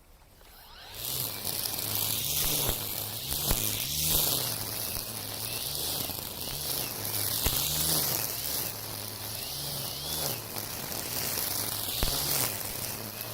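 Makita 40V cordless brushcutter with an Oregon Flexiblade starting up about a second in and cutting dense weeds, its electric motor buzzing with a pitch that dips and recovers over and over as the blade bites into the thick grass, over a hiss of slashing stems.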